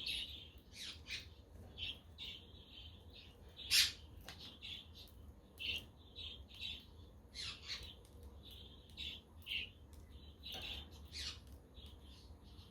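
Budgerigars chattering in a stream of short chirps, with one louder, sharper call about four seconds in.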